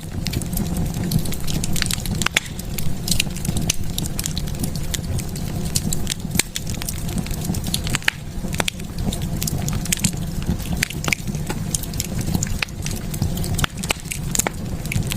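Wood fire burning in a fireplace: a steady low rumble of the flames, with irregular sharp crackles and pops throughout.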